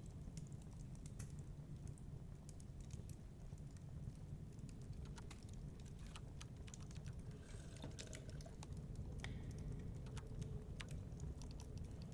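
Wood fire crackling in a fireplace: irregular sharp pops and clicks, some in quick clusters, over a steady low rumble.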